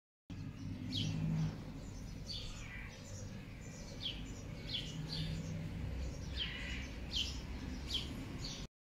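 Birds chirping: a string of short, quick falling chirps, about one or two a second, over a low steady background rumble.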